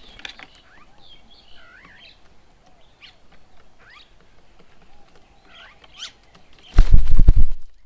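Several birds chirping and calling at a bird table, with short whistled and warbled notes. Near the end, a loud rumbling burst lasting under a second drowns them out.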